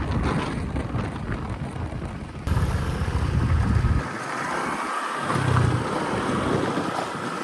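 Wind buffeting the microphone in low rumbling gusts over a steady travel noise of a vehicle or boat. The sound changes abruptly about two and a half seconds in, and after about four seconds the rumble comes and goes in gusts.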